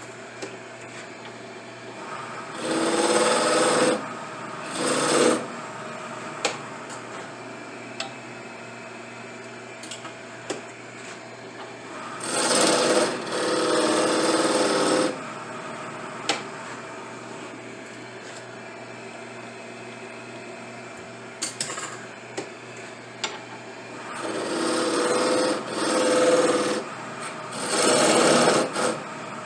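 A small power tool runs in about five short bursts of one to three seconds each, over a steady background hum, with a few light clicks in the pauses between bursts.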